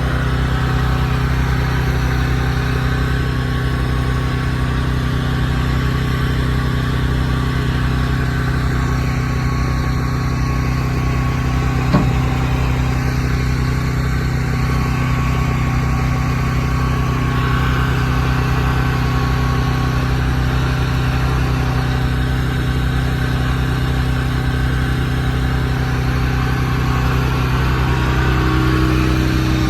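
Large truck engine idling steadily, with one sharp knock about twelve seconds in.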